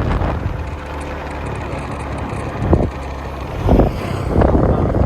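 Motorcycle engine running while riding, with wind buffeting the microphone in a few short gusts.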